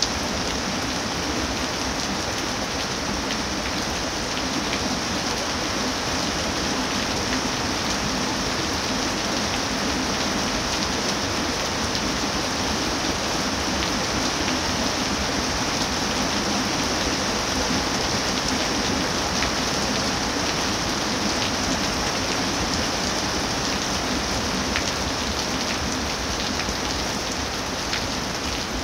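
Steady rain falling, an even unbroken hiss with nearer drops ticking now and then.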